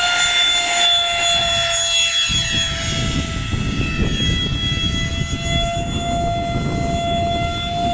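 Electric ducted fan of an RC Viper Jet model running at a steady, high-pitched whine as it flies. A low rumble of wind noise comes in about two seconds in.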